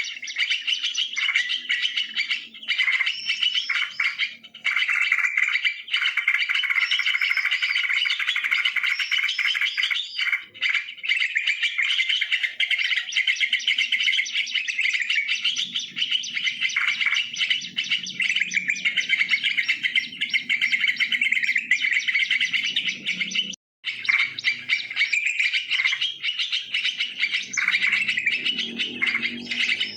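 Yellow-vented bulbuls chattering and singing without pause in dense, rapid, bubbly chirps, with a brief break about three-quarters of the way through.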